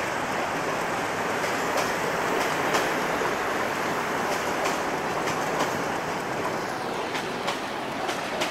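Metre-gauge passenger train's coaches rolling past in a steady rush of wheel and rail noise, with the wheels clacking over rail joints about once a second.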